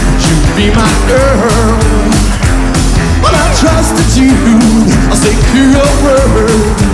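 Live rockabilly band playing an upbeat number: drums keep a steady beat under a wavering lead melody.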